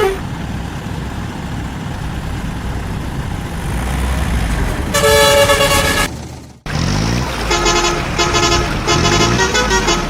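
A heavy vehicle's engine rumbles low and steady. About five seconds in, a horn sounds one steady note for about a second. After a brief break it gives a string of short, quick toots over the running engine.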